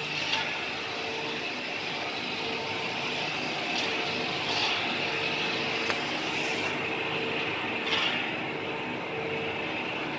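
A compactor machine running: a steady mechanical hum and hiss, with a few short sharp clacks standing out.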